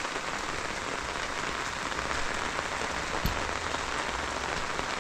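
Heavy rain falling steadily, a dense even patter. One short sharp tap about three seconds in.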